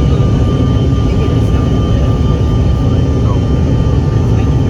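Airliner cabin noise: a steady, loud low rumble of engines and airflow with a thin constant whine.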